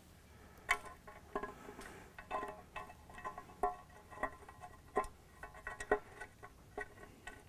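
Light metallic clinks and taps with a short ring, irregular, about one or two a second: bolts and hand tools knocking against metal while exhaust manifold bolts are being fitted.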